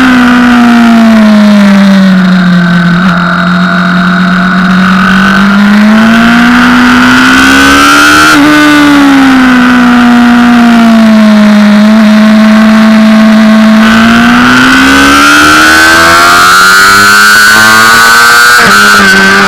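Honda CBR600RR's inline-four engine under way at track speed, its pitch falling, rising to a peak about eight seconds in, easing off, then climbing steadily before dropping sharply near the end, as at an upshift.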